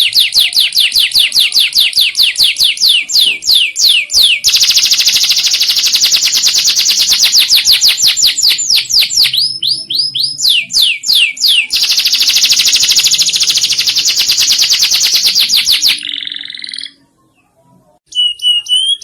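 Domestic canary singing a long song of fast, high trills of rapidly repeated notes, the pace changing from one phrase to the next. The song breaks off briefly near the end, then starts again.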